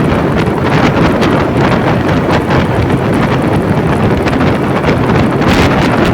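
Heavy wind buffeting the microphone of a moving vehicle, a loud, steady rush with a low rumble and uneven gusty flutter.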